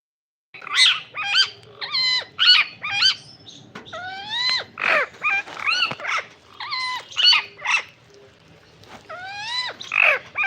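Parrot giving a rapid series of short squawks and whistled calls, some gliding up in pitch, about two a second, starting about half a second in.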